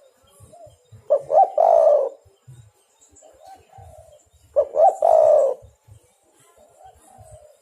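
Spotted dove (tekukur) cooing: two loud phrases about three and a half seconds apart, each of two short coos running into a longer one, with softer cooing between them. This is the dove's repeated calling song, used as a lure call.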